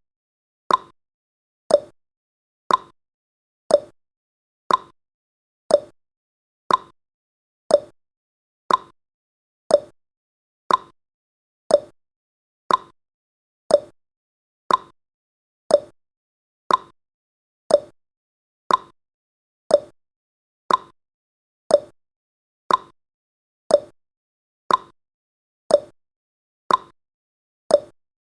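Countdown timer's clock-ticking sound effect: a short tick once every second, alternating higher and lower like a clock's tick-tock.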